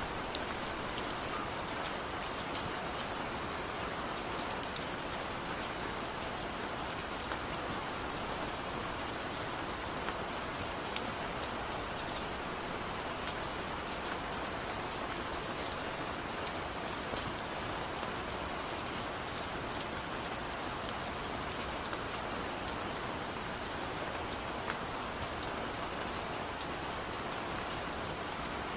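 Steady rain falling, an even hiss of rainfall with many individual drops ticking on surfaces.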